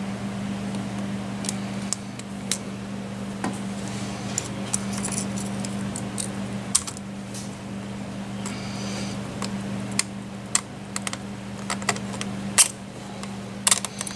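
Small metal parts of a Kawasaki Mule transmission clicking and clinking irregularly as a gear and its lock ring are worked onto a shaft, with a few sharper clacks near the end. A steady low hum runs underneath.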